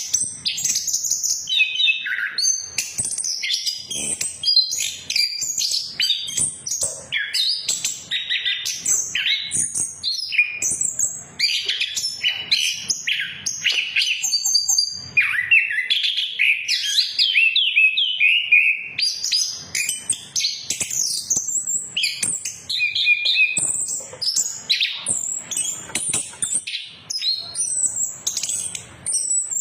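Chestnut-capped thrush (anis kembang) singing without pause, a fast, varied stream of high whistled notes, trills and chattering phrases.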